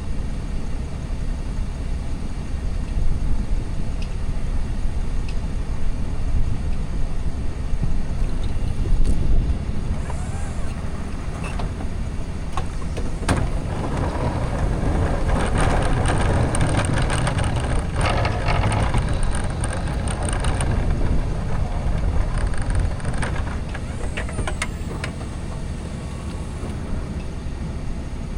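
Diesel pickup truck running while plowing snow: a steady low engine rumble, with a louder rushing, scraping-like stretch in the middle and a few sharp knocks.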